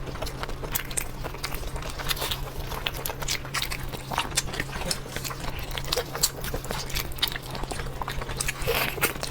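Close-up chewing of sticky, collagen-rich food, with wet smacking and many irregular mouth clicks over a steady low hum.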